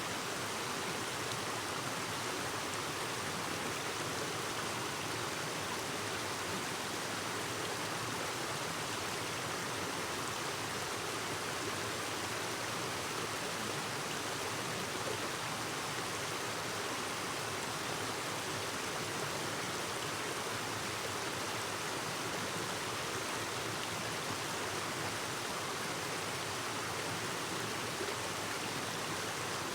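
A clear mountain stream babbling over rocks, a steady rush of flowing water.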